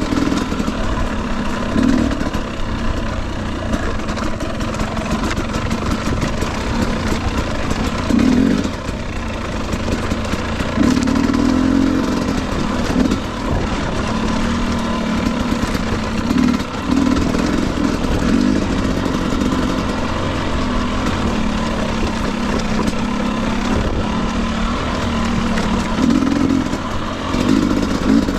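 2021 Husqvarna TE250i two-stroke dirt bike engine running on a trail ride, the revs rising and falling every second or two as the throttle is worked, with wind and trail noise over the microphone.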